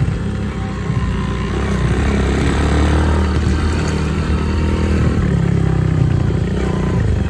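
Child's dirt bike engine running, its pitch rising and falling as the throttle is opened and eased off.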